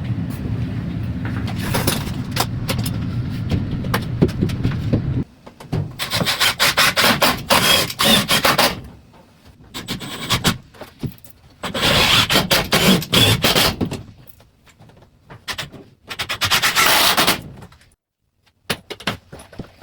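A steady low hum for about five seconds that stops abruptly, then wood rubbing and scraping in three bursts of a couple of seconds each: 2x4 framing lumber being handled and fitted.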